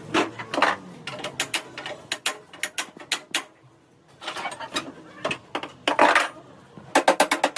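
Metal clinks and knocks of hand tools striking and working on metal car parts, irregular at first with a couple of short scrapes, then a quick even run of taps near the end.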